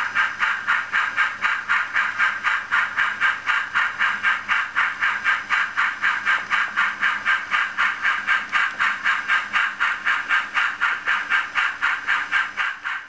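A train running with a steady, even rhythm of about four hissing beats a second.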